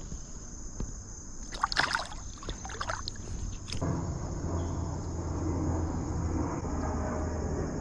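Water splashing and sloshing for about two seconds, then a steady low rushing noise.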